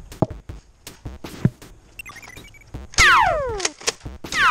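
Light footsteps and small clicks, then about three seconds in a loud sci-fi 'pew' blaster shot that slides steeply down in pitch over under a second. A second shot begins near the end.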